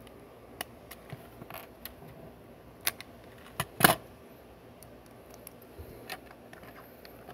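Plastic Lego bricks clicking and clattering as they are handled and pressed together. Scattered sharp clicks, with the loudest pair close together about four seconds in.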